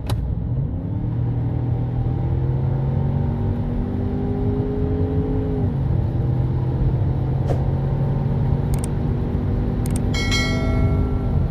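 Ford Bronco Sport's 2.0-litre EcoBoost turbocharged four-cylinder pulling hard under full acceleration, its pitch climbing steadily. It drops sharply on an upshift of the eight-speed automatic about six seconds in, then climbs again to another shift near the end. A few light clicks and a brief high chime sound near the end.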